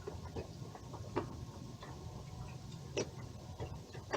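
A few separate, sharp clicks and taps, a second or more apart, from hands-on work on a small portable generator being taken apart, over a faint low hum.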